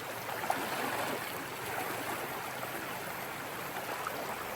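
Steady rush of a backcountry river flowing over stones, running slightly high.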